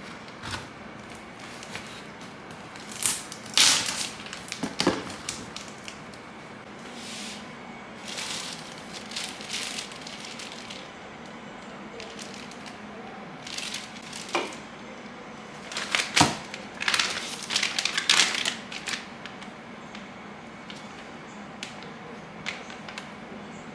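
Packaging being handled: plastic and cardboard rustling and crinkling, with scattered clicks and light knocks and two louder flurries, one a few seconds in and one about two-thirds through.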